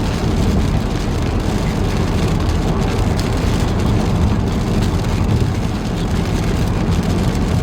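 Steady road noise inside a moving car: engine and tyre rumble.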